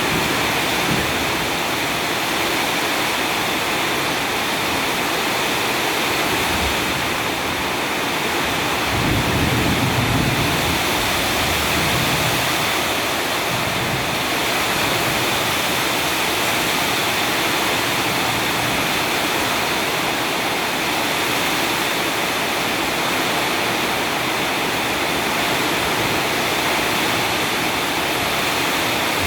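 Heavy rain pouring down steadily, with a low rumble swelling briefly about ten seconds in.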